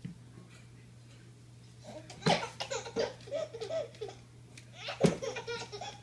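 Baby laughing in two bouts of choppy giggles, the first starting about two seconds in and the second near the end, each opening with a sharp thump.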